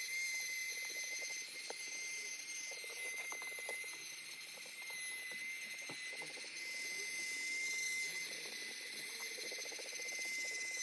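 Cheap cordless mini handheld vacuum cleaner running, its small motor giving a steady high-pitched whine with airy hiss. Faint scattered ticks and rattles of sand being sucked up.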